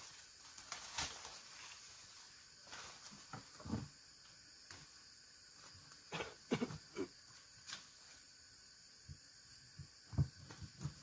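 Forest insects trilling in a steady, high, pulsing chorus, with scattered light knocks and thuds throughout; the loudest thud comes near the end.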